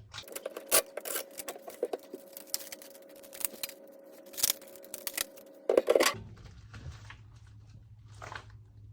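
Packaging and fridge parts being handled: a run of crackles, clicks and sharp taps for about six seconds, with a faint steady tone under them, then a few quieter ticks.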